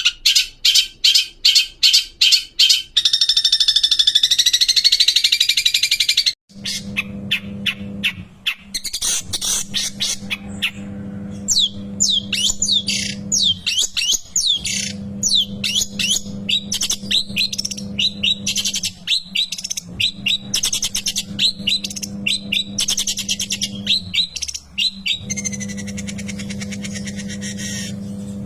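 Long-tailed shrike (cendet) singing loudly: rapid repeated sharp notes, then a continuous warble. After an abrupt break about six seconds in, the song turns to fast chattering and down-slurred whistles over a steady low hum.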